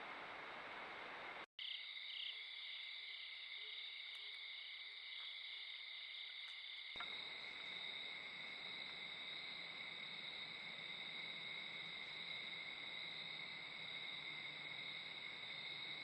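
Night insect chorus: a steady high trill of crickets and katydids, with a pulsed chirping, about two chirps a second, for a few seconds after an abrupt break near the start.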